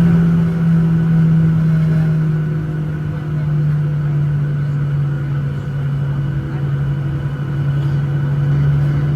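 Boeing 737-900ER's CFM56-7B jet engines running at taxi power, heard inside the cabin as a loud, steady drone. The pitch steps slightly lower about three seconds in.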